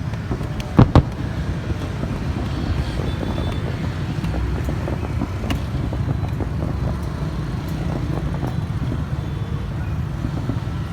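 Steady low outdoor rumble, like wind and distant traffic, broken by two sharp bangs close together about a second in.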